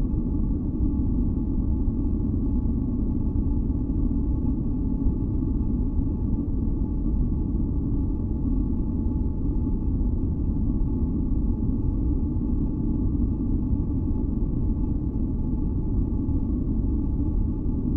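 Steady, deep noise for sleep and sound masking, its energy mostly low, with a few faint held tones above it and no change throughout.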